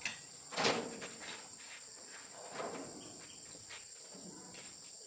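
Steady high-pitched chirring of insects, with a few short knocks or clatters, the loudest just after half a second in.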